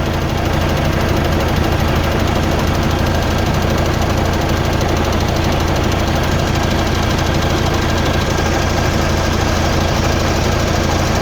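Mercedes-Benz truck's diesel engine idling steadily, with a diesel clatter, while its 24-volt charging system is tested.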